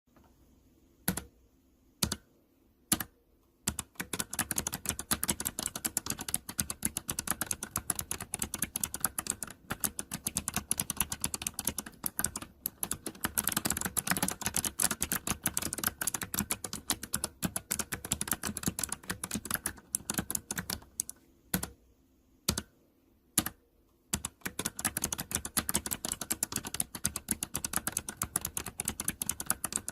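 Mechanical keyboard with optical switches being typed on: three single keystrokes about a second apart, then fast continuous typing. About two-thirds of the way through the typing pauses for a few lone keystrokes, then runs fast again.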